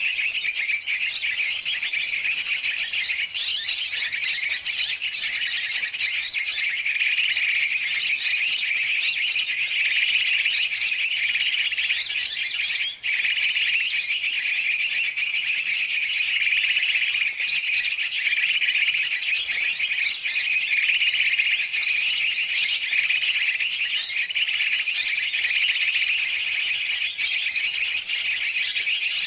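A dense, unbroken chorus of many birds, large and small, chirping and chattering noisily over one another. It is a bird-trapping lure recording of the kind played to draw in yellow-vented bulbuls.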